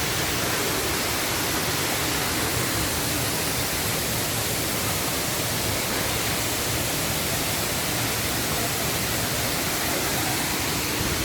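Steady roar of the Sendang Gile waterfall, falling water rushing without a break.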